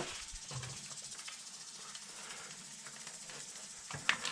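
Antifreeze being poured into the motorcycle's cooling system, a steady faint hiss, with a few sharp clicks and knocks at the start and again near the end.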